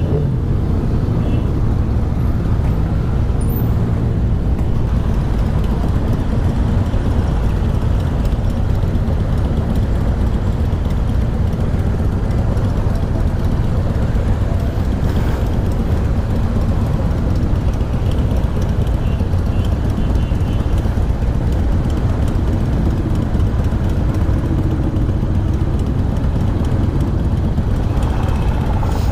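Motorcycle engines running steadily at low riding speed as a group of motorcycles rides together in formation.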